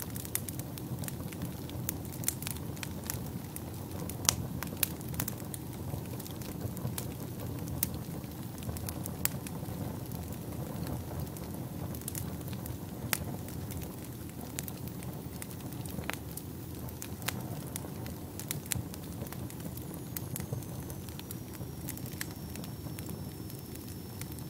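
Wood fire burning in a fireplace: a steady low rumble of flames with irregular crackles and sharp pops, a few of them louder. A thin, faint high whistle drifts slightly downward near the end.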